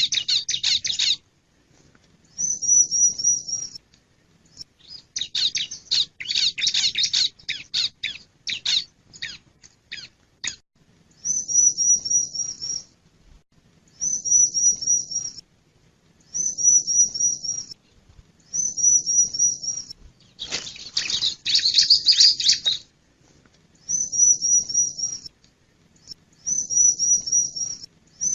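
Male bar-winged prinia (ciblek) calling: short phrases of rapid, high repeated notes every two to three seconds. These are broken three times by bursts of denser, scratchy chattering: at the start, from about five to ten seconds in, and about twenty seconds in.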